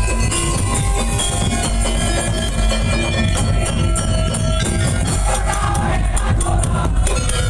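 Madurese daul music: a percussion ensemble playing dense, fast drumming with jingling percussion under a sustained melody, loud and unbroken.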